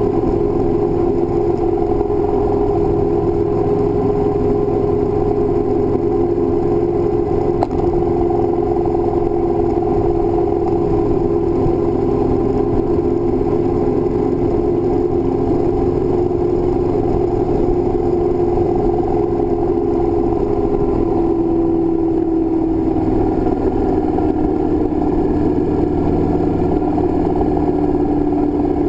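Motorcycle engine running steadily under riding wind and road noise, its pitch falling slowly over the last several seconds as the bike eases off. A brief click about eight seconds in.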